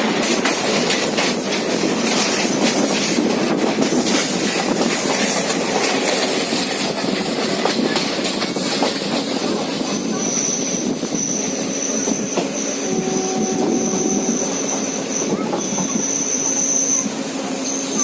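Train running on rails, its wheels clattering over the rail joints. About halfway through, a high steady wheel squeal sets in and keeps breaking off and starting again.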